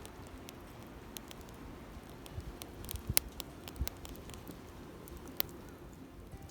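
Wood campfire crackling, with scattered sharp pops and snaps over a low steady background; the loudest snaps come about three seconds in and again near the end.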